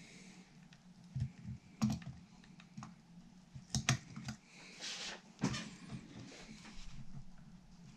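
Small parts and hand tools handled during guitar assembly: irregular light clicks and knocks, a few sharper ones about two and four seconds in, over a steady low hum.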